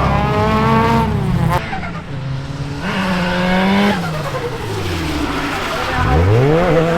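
Drift car engines on track, revving up and down in quick throttle swings, with a sudden drop in revs about one and a half seconds in and a sharp climb near the end.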